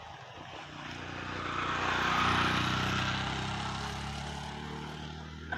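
An engine passing by, its drone swelling to a peak about two seconds in and then slowly fading. A short sharp click near the end.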